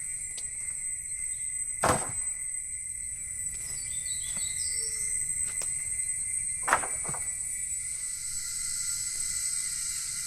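Steady high-pitched insect drone of a tropical forest, with a short run of bird chirps about four seconds in. Two sharp knocks stand out, one about two seconds in and one near seven seconds.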